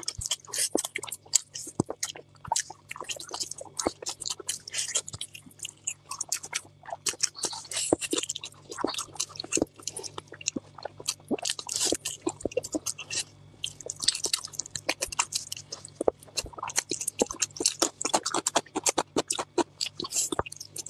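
Close-miked chewing and biting of pork tail: a steady stream of irregular short mouth clicks and smacks, over a faint steady low hum.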